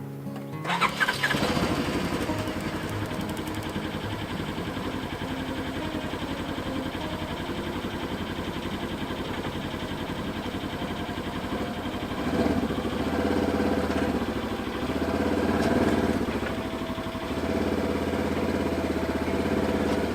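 Polaris Ranger XP 1000 side-by-side's twin-cylinder engine starting, then running with a steady pulse and revving up several times, with music underneath.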